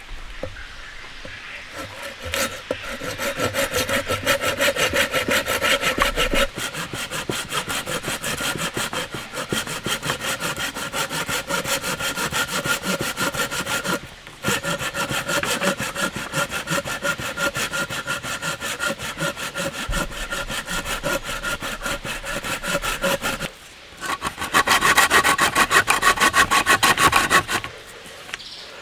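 Hand saw cutting through wood in quick, even back-and-forth strokes. It pauses briefly twice, and the last spell of strokes near the end is louder.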